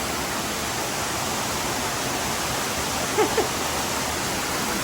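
Waterfall rushing close by, a steady roar of falling water, with two brief pitched sounds about three seconds in.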